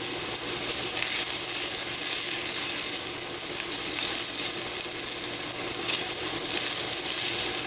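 Onions, carrots and celery sautéing in hot avocado oil in a skillet, a steady sizzle.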